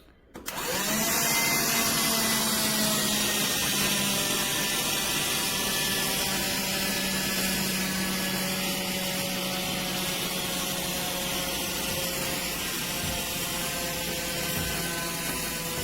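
BLACK+DECKER Dustbuster cordless handheld vacuum switched on with a click. Its motor spins up within a second to a steady whirring hum over a strong airflow hiss, its pitch easing down slightly as it keeps running.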